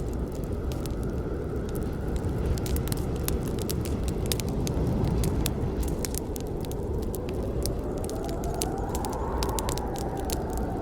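Campfire burning: a steady low rumble of flames with dense crackling and snapping of the burning wood. In the second half a thin tone rises and then eases off slightly.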